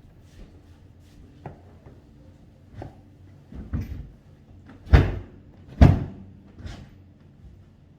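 A series of knocks and thumps, the two loudest close together about five and six seconds in.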